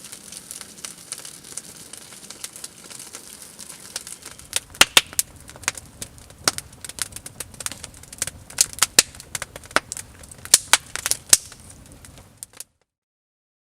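Wood fire crackling with a fine hiss, then loud sharp pops coming thick and irregular from about four seconds in. The sound cuts off suddenly near the end.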